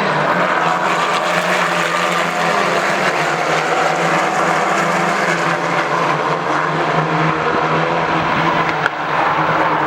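British F4 single-seater race cars running on track: a steady engine note with several cars' pitches layered together, shifting slightly a few times.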